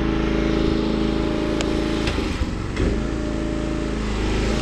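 A boom lift's small engine running steadily. There is one sharp click about a second and a half in, and the engine note wavers briefly a little after two seconds in.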